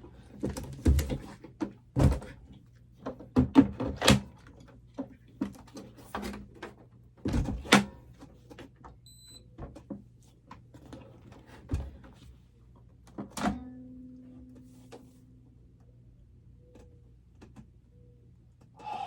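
Thunks and knocks of a Makita cordless microwave and its packing being handled and set down, many in the first half and fewer later. A short high beep sounds about nine seconds in, and a thunk at about thirteen seconds leaves a brief low hum.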